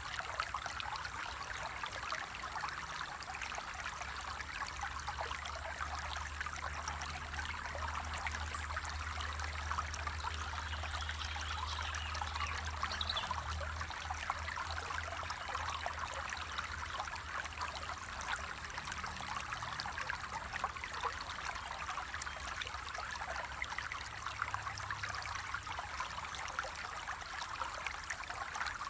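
Water flowing and trickling steadily in a small stream, an even rushing with no pauses.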